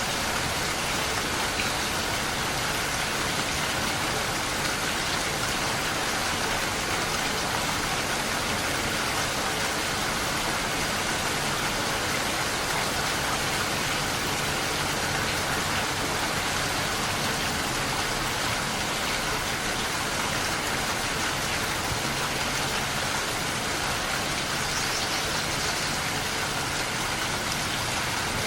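Steady, dense rain falling, an even hiss with no distinct drops standing out, with a faint low steady hum underneath.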